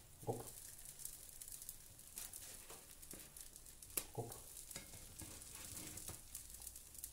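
Oat pancakes frying in a pan with a faint steady sizzle, broken by a few sharp clicks of a spatula against the pan as they are turned.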